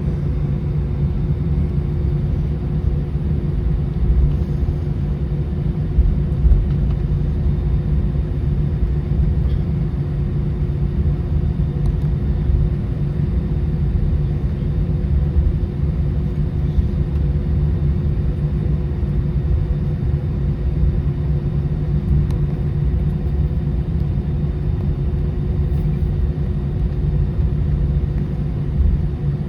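Steady low rumble of an Airbus A319's engines and airframe heard inside the passenger cabin, with a faint steady hum running through it and a couple of small bumps a few seconds in.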